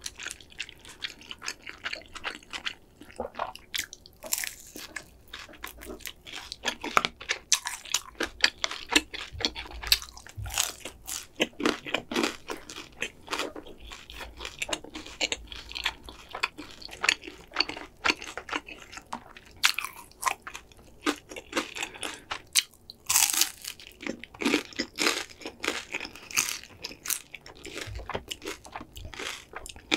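Close-miked chewing and crunching of crispy fried food, a dense run of irregular crackly bites and mouth sounds.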